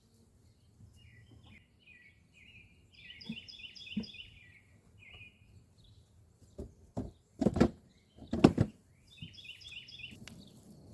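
A small bird chirping in quick, repeated phrases on and off. A cluster of thumps and knocks about two thirds of the way through are the loudest sounds.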